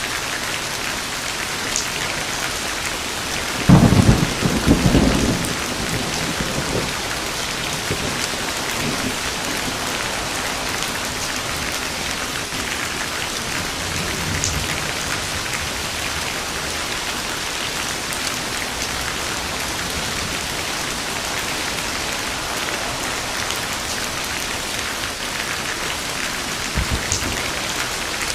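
Steady heavy rain falling, with a loud clap of thunder about four seconds in that rumbles for a couple of seconds, and a fainter rumble of thunder near the end.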